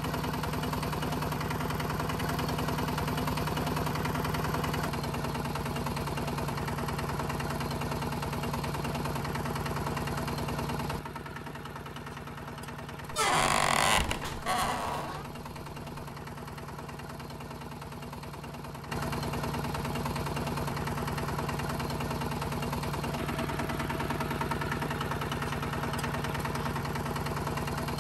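A small motor running steadily with an even hum, its pitch and level shifting slightly a few times. About 13 seconds in, a brief louder hissing burst cuts across it.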